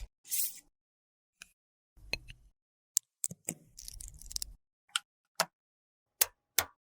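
Scattered sharp clicks and taps from handling small makeup tools and a cosmetic compact, with two short stretches of scraping or rubbing, one about two seconds in and a longer one around four seconds in.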